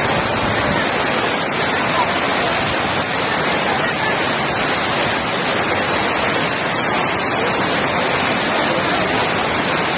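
Heavy rain falling, a loud steady rush of noise.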